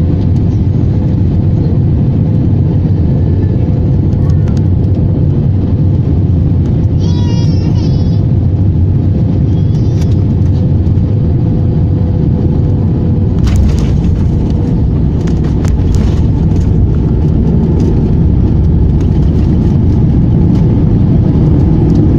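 Airliner landing: a loud, steady low rumble with a faint steady tone through it. About 13 seconds in, the rumble grows deeper and a few sharp clicks or rattles sound.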